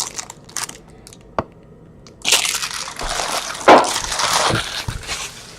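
A trading card pack wrapper being torn open and crinkled by hand, with one sharp click about a second in and a few seconds of dense crackling after it.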